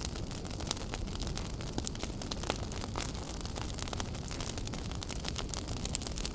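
Fireplace fire crackling: frequent irregular sharp snaps and pops over a steady low rumble of burning.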